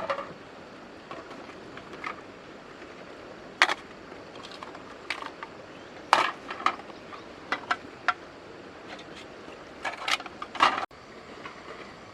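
Irregular sharp knocks and clatters, about a dozen, spaced unevenly over a steady background hiss. The background drops off abruptly near the end.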